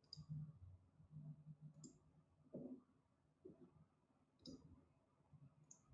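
Four faint, sharp computer mouse clicks spread a second or two apart over near silence with a faint low hum.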